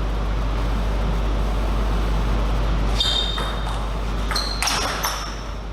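Table tennis ball being struck in a rally: a quick series of sharp clicks with short, high ringing pings, starting about halfway through, over steady hall noise and a low hum.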